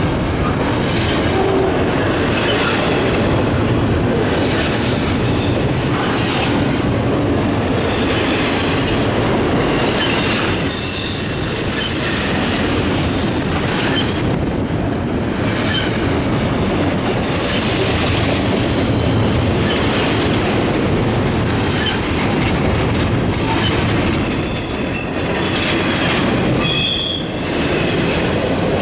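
Cars of a long double-stack intermodal freight train rolling past: a steady rumble and clatter of steel wheels on the rails, with short high-pitched wheel squeals now and then, louder near the end.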